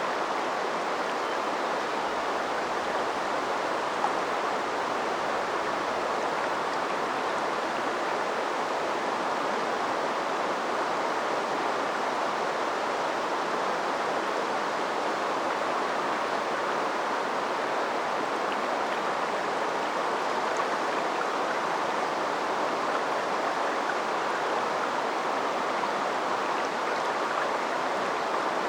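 River tributary flowing steadily: a constant rushing and babbling of water, with one brief faint tick about four seconds in.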